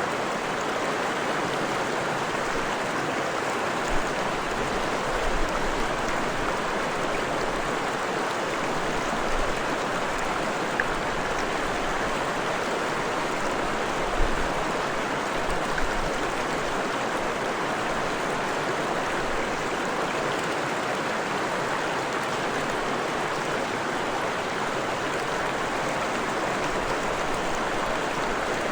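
Freshwater stream flowing: a steady rush of running water, with a few brief low thumps scattered through.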